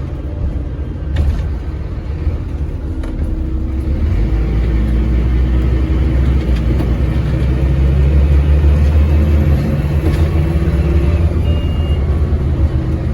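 Scania N230UD double-decker bus's five-cylinder diesel engine running under load, a deep steady drone that grows louder and pulls harder from about four seconds in.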